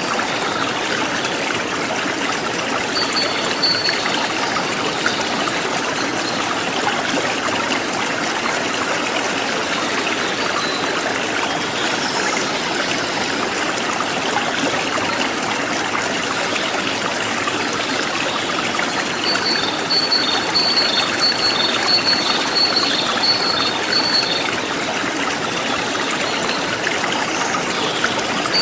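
A forest stream flowing steadily, a dense rush and trickle of water. A bird calls over it in quick runs of short, high repeated notes: briefly a few seconds in, then for about five seconds past the middle, and again at the end.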